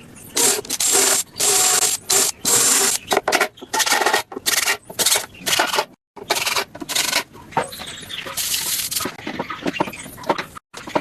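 Repeated abrasive strokes worked across wood by hand, in short rasping bursts at about two a second, broken off abruptly a few times.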